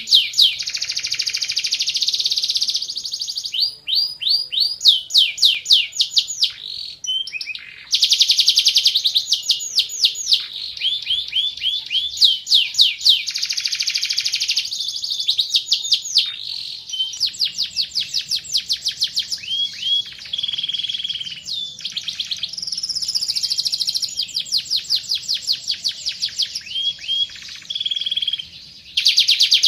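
Van Hesterling canary singing a continuous song of fast repeated trills and rolls, broken by a few short pauses.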